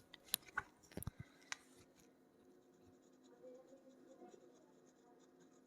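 Pen writing on a drawing surface, with a few sharp taps in the first second and a half, then near silence.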